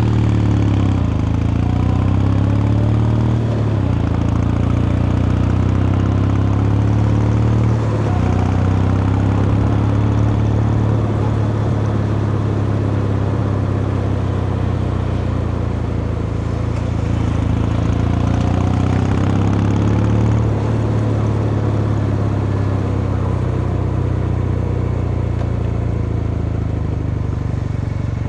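Kawasaki Meguro K3's air-cooled vertical-twin engine and exhaust running under way, its pitch climbing and then dropping with gear changes near the start, about 4 seconds in and about 8 seconds in, then pulling more steadily with gentle rises and falls and easing off about 20 seconds in.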